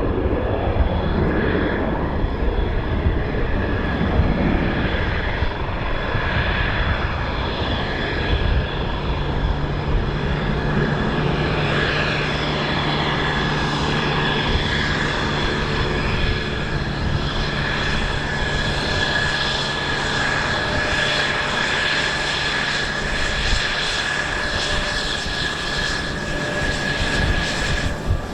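Mitsubishi F-2 fighter's single General Electric F110 turbofan jet engine running steadily, with a high whine that grows stronger in the second half, over gusty wind on the microphone.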